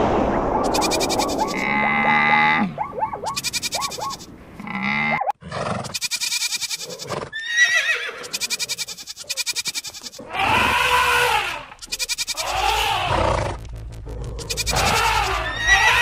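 Farm animal calls one after another, goat bleats among them, each about a second long with short gaps between.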